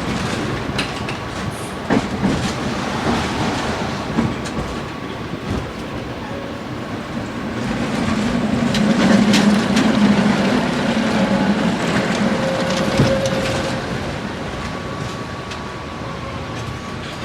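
Tram running along its rails: a steady rumble with scattered clicks from the wheels on the track, and a low hum that swells about halfway through and fades again.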